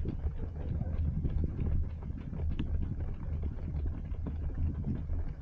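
Running footsteps heard from a body-worn action camera: a steady, regular patter of footfalls at running pace over a low rumble of wind and movement on the microphone.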